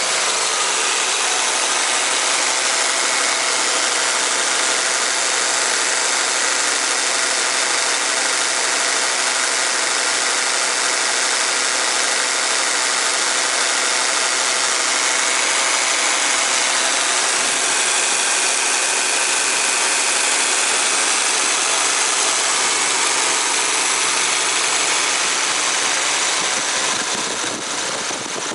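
Honda Accord LX engine running with its 10PA17C air-conditioning compressor engaged, a steady loud mechanical noise coming from inside the compressor: a sign of a loose, internally worn compressor. The noise eases slightly near the end.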